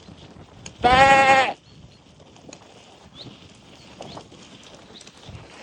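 A sheep bleating once, a single wavering "baa" about a second in.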